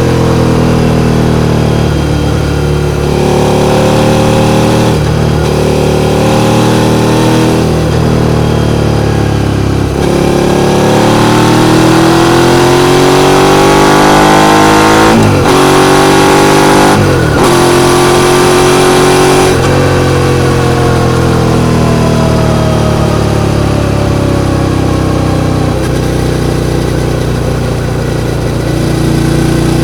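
Suzuki SV650's V-twin engine running hard, its revs rising and falling, with two quick breaks and drops in pitch about 15 and 17 seconds in, like upshifts.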